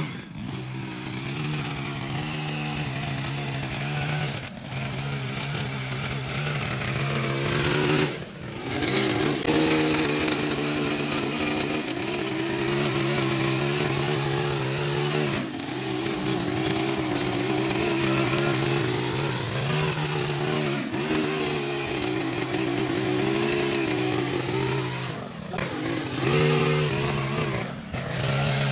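Toro TimeCutter zero-turn mower engine running steadily at cutting speed, its note wavering with the load and dipping briefly a few times.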